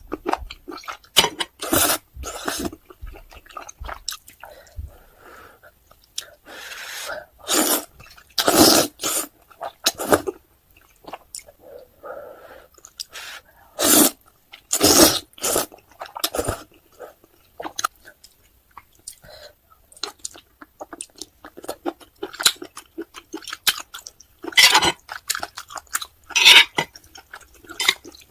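Close-miked eating sounds: wet, irregular chewing and biting of octopus and Buldak spicy stir-fried noodles, with a few longer noisy bursts among the short ones.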